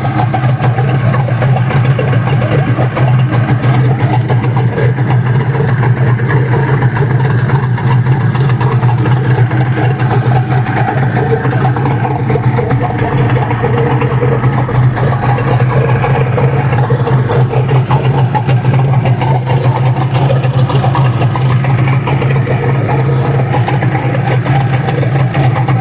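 Mesan 9.9 outboard motor (326 cc, two-cylinder two-stroke) running steadily at an even speed on its first start.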